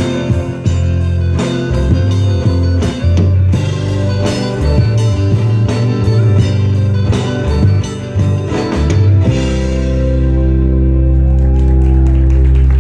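Live band playing an instrumental passage with a steady drum-kit beat; about nine seconds in the drums stop and the band holds a long sustained final chord.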